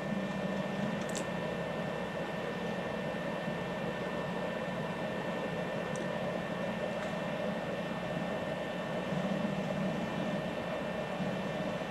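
Qidi X-Max 3D printer running, its Z-axis motors moving the build platform under manual control: a quiet, steady hum with a few faint high whining tones.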